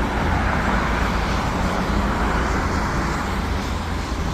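Steady low rumble and hiss of running motors, without a break or change.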